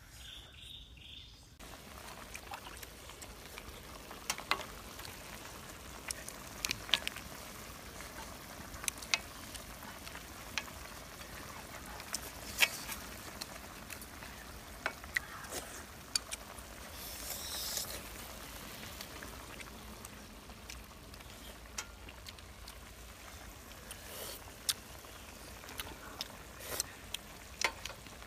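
Clams and mussels sizzling steadily in a wok on a portable gas stove, with frequent sharp clicks of clam shells as they are pried open by hand.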